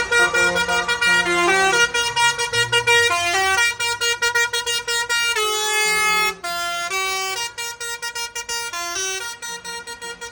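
A melody played in steady, horn-like electronic notes, stepping from pitch to pitch a few times a second, growing a little fainter after about six seconds.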